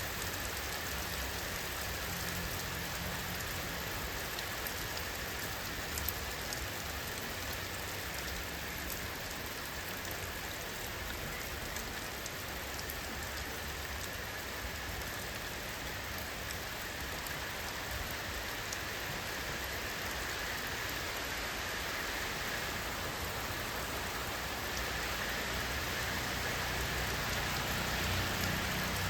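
Steady rain falling, with scattered individual drops ticking through the even hiss; it grows slightly louder near the end.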